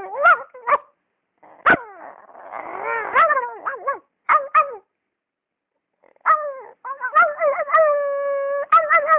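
A man's voice imitating animal cries: short yelping, whining calls that slide up and down in pitch, a longer wavering stretch in the middle, and a held steady cry near the end.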